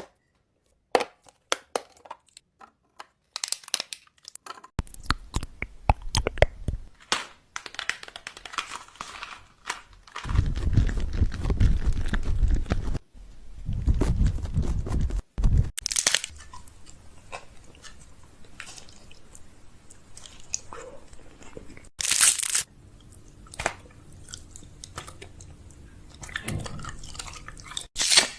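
Snack packets crinkling and rustling as they are handled and dropped into containers, with many sharp clicks and knocks of plastic bins and lids. A stretch of dense rattling a few seconds past the middle sounds like snacks being poured in, and there are a few short, loud bursts.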